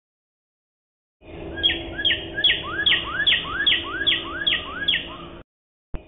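A bird calling over and over, about nine two-note calls a little under half a second apart, each a high falling note then a lower rising one; it starts about a second in and cuts off abruptly. A brief click follows just before the end.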